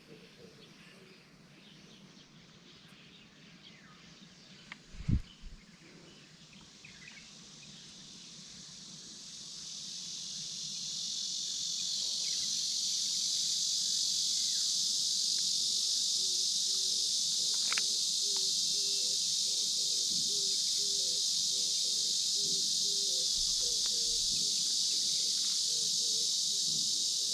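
Insects in chorus, likely summer cicadas: a steady high-pitched buzz that swells in about ten seconds in and then holds loud and even. Before it, faint bird chirps and one dull thump about five seconds in.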